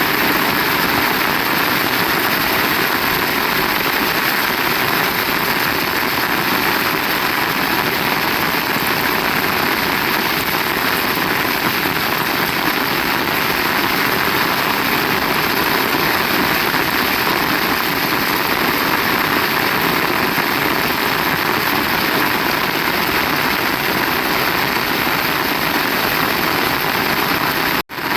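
Heavy rain falling steadily, a dense even wash of sound, dropping out for a split second near the end.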